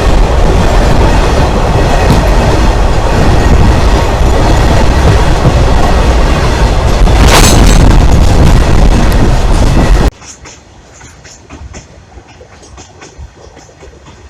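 A freight train passing directly over the recorder: a very loud, dense rumble and wheel clatter on the rails. About ten seconds in it cuts off abruptly to a much quieter stretch with only faint clicks.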